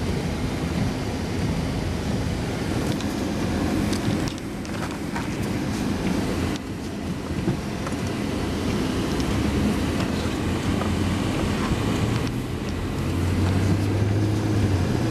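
A vehicle engine running steadily under a constant hiss. About thirteen seconds in, a deeper hum grows louder.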